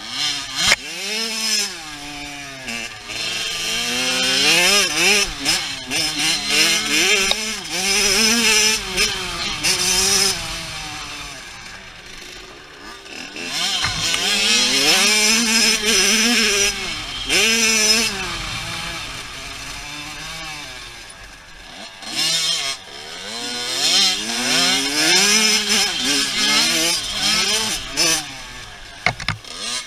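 Dirt bike engine revving hard and running through the gears, its pitch climbing and dropping again and again. It grows loud three times and fades in between, as the bike rides near and away.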